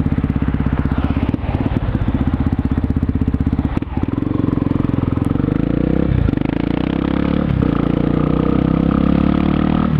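Yamaha XTZ 250 Lander's single-cylinder four-stroke engine running loud through a Dore aftermarket exhaust as the bike is ridden. The engine note breaks briefly about four times at gear changes and climbs steadily in between.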